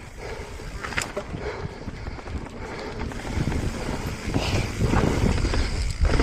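Wind buffeting the microphone and mountain bike tyres rolling over a dirt trail, growing louder as the bike picks up speed, with a sharp click about a second in.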